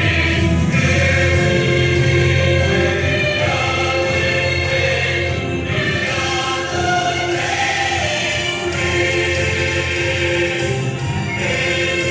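Musical-theatre song playing, with a choir of voices singing over the instrumental backing between verses.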